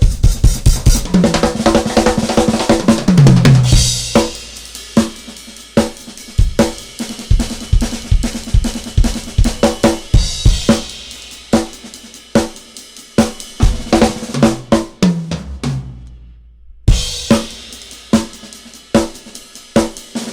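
Drum kit played in a fast, busy pattern of snare, bass drum and hi-hat, with cymbal crashes about four, ten and seventeen seconds in. The playing stops briefly just before the last crash.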